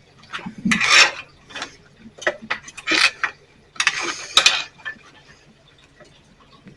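Irregular metallic clicks and rasps as a steel turnbuckle and fence rod are worked by hand, in several short bursts that tail off after about four and a half seconds.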